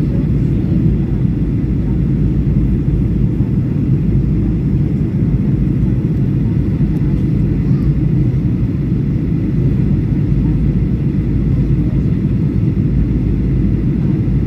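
Steady low rumble of a Boeing 737's engines and airflow heard inside the passenger cabin during descent.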